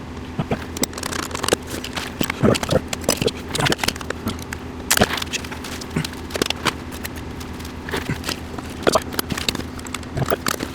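Irregular clicks, taps and light scrapes of screws and small metal parts being handled and fitted during reassembly of a water heater power vent fan, over a steady low hum.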